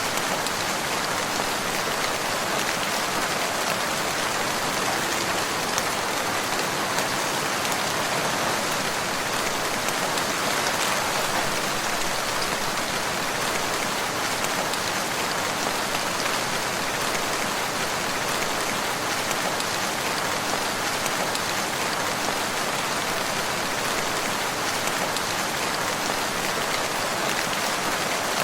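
Steady rain falling, a dense even patter of drops on a surface with no thunder or other events.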